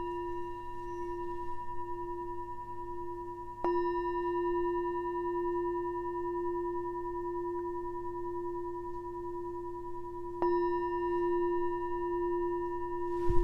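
Singing bowl struck twice, about three and a half seconds in and again about ten and a half seconds in. Each strike sets off a long, steady ring with a low hum and a higher overtone. A short thump comes near the end.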